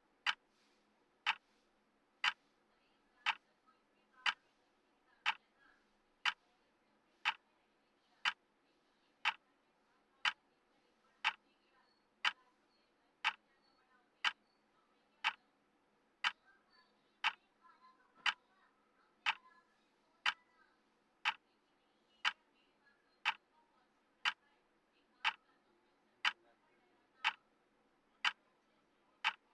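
Clock tick sound of a countdown timer: one sharp tick every second, steady and even.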